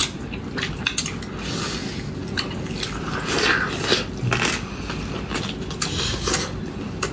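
Eating sounds: chewing on red-braised pork, with scattered sharp clicks and scrapes of utensils against dishes.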